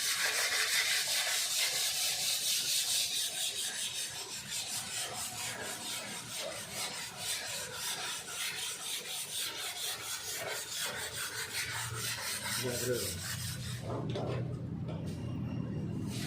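Sanding hardened body filler (dempul) on a car body panel, a rhythmic scraping rasp of repeated strokes. The sanding stops about two seconds before the end, leaving a low steady hum.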